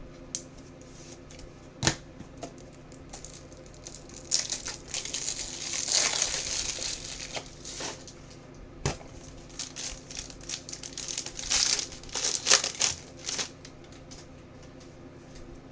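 Trading cards and their plastic packaging being handled: crinkling and rustling in two stretches, about four seconds in and again near the end, with a few sharp taps.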